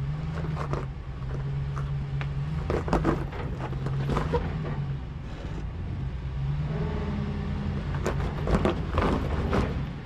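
Ram 1500 pickup's engine running at low crawling speed, picking up briefly about two-thirds of the way in, while the tires climb rock ledges; short crunching and scraping noises come several times, loudest near the end.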